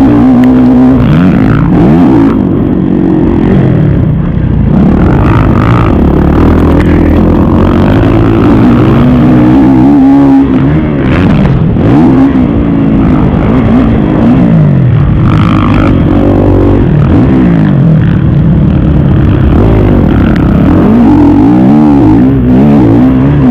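Kawasaki KX450 four-stroke single-cylinder motocross bike ridden hard, loud throughout. The engine pitch climbs and drops again and again as the throttle is opened and closed through the gears.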